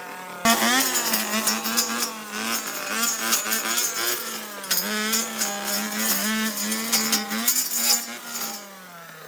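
A small engine running, its pitch repeatedly rising and falling as it speeds up and slows down, with many sharp clicks and ticks over a steady drone; it eases off near the end.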